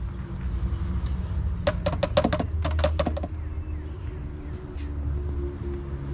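Car engine running with a steady low hum, with a quick run of about ten sharp clacks, like a plastic fluid bottle or funnel knocking, about two seconds in.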